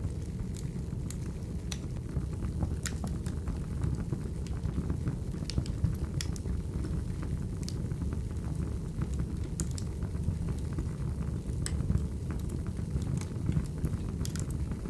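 Crackling wood fire: a steady low rumble with irregular sharp pops and snaps scattered through it.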